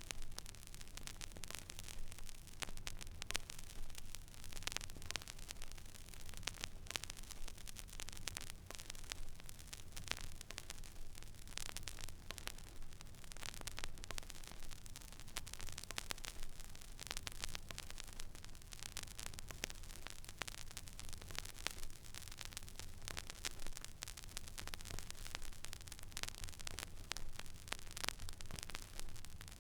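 Stylus running in an empty vinyl record groove: steady surface hiss with frequent crackles and pops, over a low hum.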